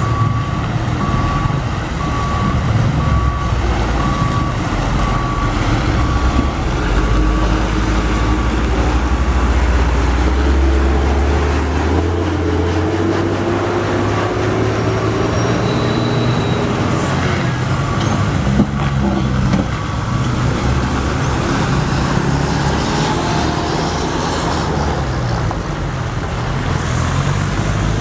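Heavy truck's diesel engine running and labouring, its pitch rising and falling. A reversing beeper sounds repeatedly through roughly the first half.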